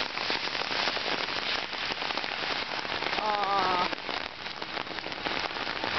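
Heavy rain falling in a dense, steady patter of sharp drop ticks, the close drops striking an umbrella overhead.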